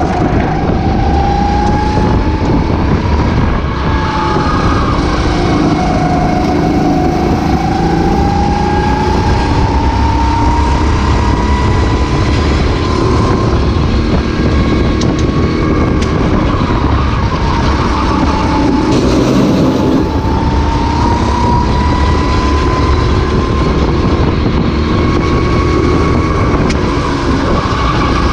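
Racing kart engine heard onboard: its pitch climbs slowly as it accelerates, drops back briefly twice as it slows for corners, then climbs again.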